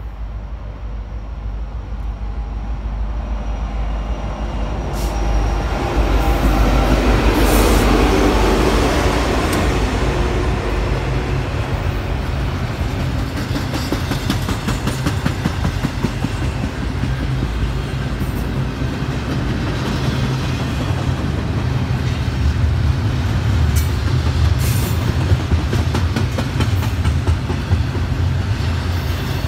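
Two diesel freight locomotives, an EMD SD70ACe leading and a GE C44-9W, approach and pass, loudest about seven to eight seconds in. Then comes the steady rumble and wheel clatter of double-stack container well cars rolling by on jointed rail.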